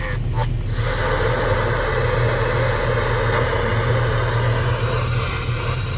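Volvo L70H wheel loader with a snow blower attachment, its diesel engine and blower running steadily under load, heard from inside the cab.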